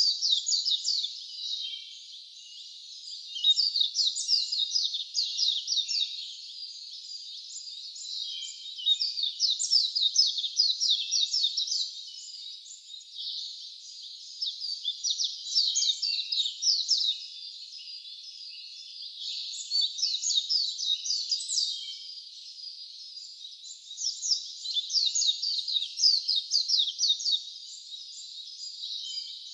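Wild songbirds chirping in repeated bouts of rapid, high-pitched notes, each run lasting two or three seconds with short lulls between.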